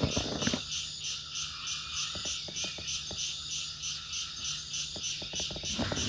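Steady chorus of forest insects, pulsing evenly several times a second, with a few faint clicks about two and five seconds in.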